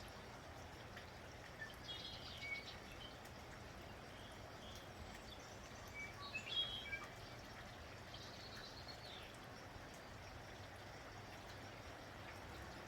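Steady, faint rain with songbirds chirping in a few short bursts, about two seconds in, around the middle, and again a little later.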